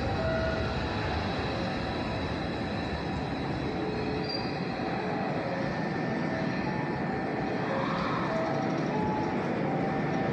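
Hankyu electric train running slowly into a terminal platform, with a steady rumble and short, scattered squeals from the wheels and brakes.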